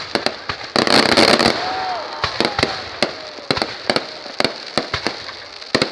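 Fireworks going off: many sharp, irregular cracks and bangs, with a dense burst of crackling about a second in, followed by a brief whistle.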